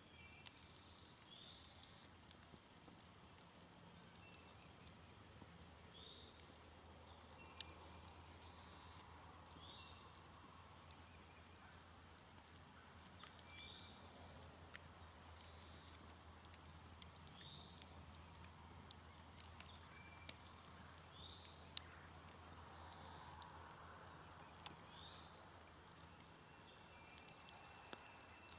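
Smouldering wood campfire crackling quietly, with scattered sharp pops and ticks. A short high call repeats every two to four seconds in the background.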